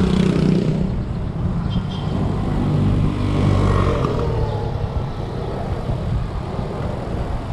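Road noise while riding: a motor vehicle engine runs steadily with a low rumble of wind on the microphone.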